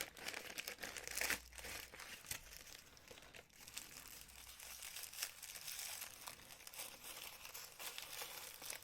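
Packaging crinkling and crackling as it is handled and unwrapped, with many small sharp crackles throughout and a louder burst about a second in.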